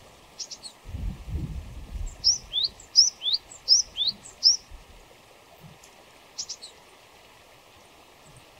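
A small songbird singing a high two-note phrase four times in quick succession, with a few short high chips before and after. A low rumble, like wind or handling on the microphone, comes about a second in.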